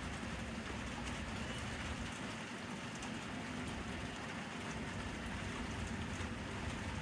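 Steady rain falling, an even hiss with a low rumble underneath that eases for a couple of seconds in the middle.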